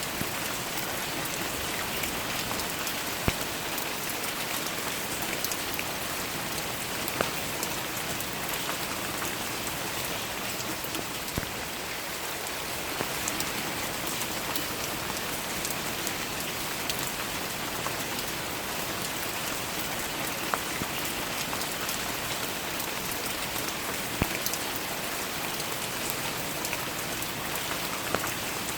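Steady rain falling, an even hiss of many drops, with a sharper single drop striking close by every few seconds.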